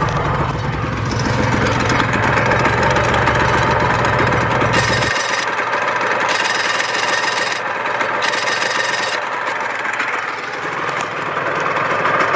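Honda NSR250R MC28's two-stroke 250 cc V-twin engine running steadily.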